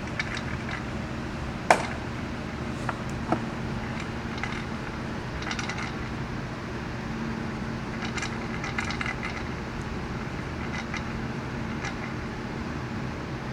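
VW Passat engine running steadily at idle, with irregular bursts of light metallic clinking and rattling and one sharp click under two seconds in. This is the sound of a bad turbocharger.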